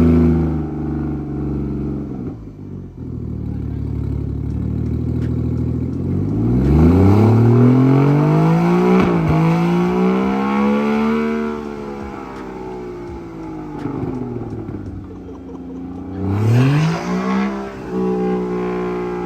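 Straight-piped BMW N54 3.0-litre inline-six, converted to a single turbo, revving. The revs drop back to a steady idle, then the engine climbs through a long pull under load. One sharp pop comes partway up the climb, and the revs fall away again. A shorter rev rises and falls near the end.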